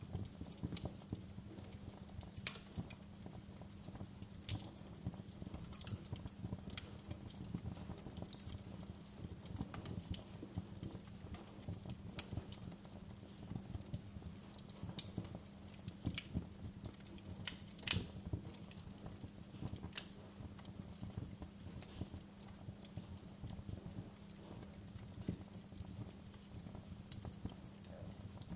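Wood fire in a fireplace crackling, with irregular snaps and pops over a steady low rumble. One pop about two-thirds of the way through is louder than the rest.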